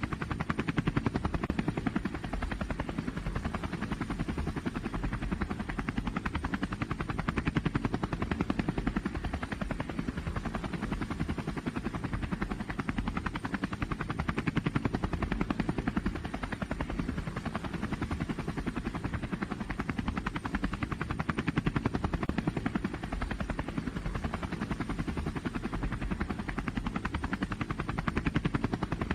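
A loud engine at a truck and tractor pull, running steadily with a fast, even pulse, its loudness swelling and easing every several seconds.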